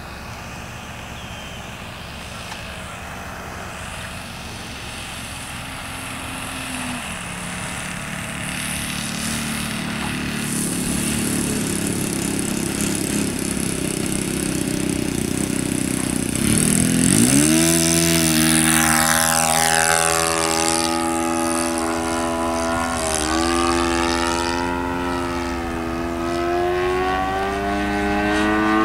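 Saito .100 four-stroke glow engine on an RC Harmon Rocket model plane, getting steadily louder. About two-thirds of the way in, its pitch climbs steeply as it speeds up, then rises and falls while staying loud.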